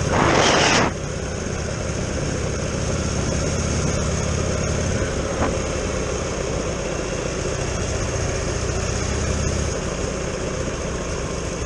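Buell XB12X's air-cooled V-twin engine running steadily at low road speed, heard from onboard. A loud rushing burst, like a gust of wind on the microphone, covers the first second.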